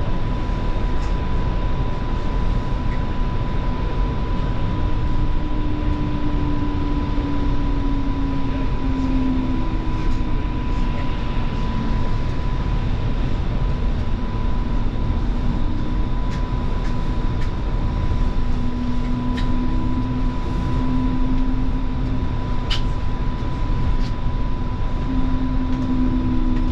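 Inside a Line 5 Eglinton light-rail car running between stations: a steady rumble of wheels on rail, with a constant high tone and lower motor whines that drift slightly in pitch, and a few faint clicks.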